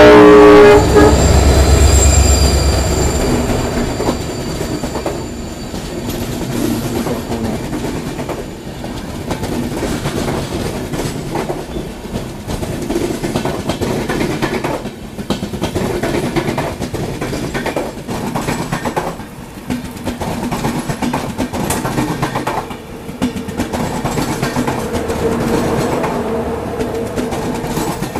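A train horn sounding loudly, cut off about a second in, then a heavy low rumble as a train passes close by. After that comes the steady running of an Indian Railways express, its wheels clacking now and then over rail joints.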